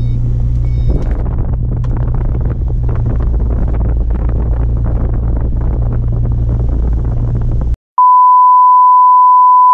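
Ford Mustang idling, heard from inside the cabin as a steady low hum with the air conditioning blowing; it cuts off abruptly near eight seconds in. After a brief silence, a steady high test tone of the kind that goes with TV colour bars begins and holds.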